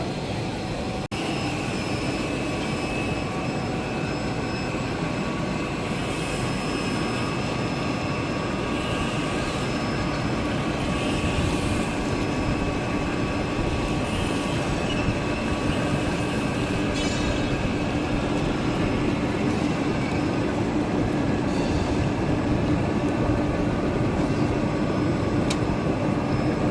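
Vegetable bubble-washing machine and processing line running, a steady mechanical noise with a constant hum and whine. There is a brief dropout about a second in.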